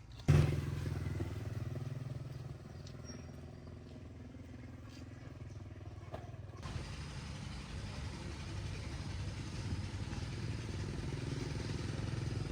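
An engine starts running abruptly just after the start, loudest at first, then settles into a steady low hum that carries on with a noisy background; the sound changes abruptly about halfway through.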